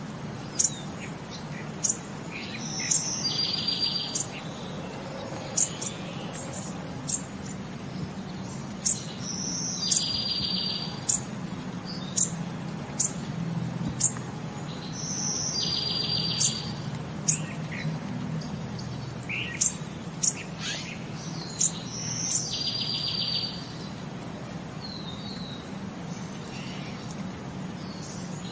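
Birds chirping in a repeating pattern: short high chirps about once a second, and a trilled call about every six seconds, over a steady low hum.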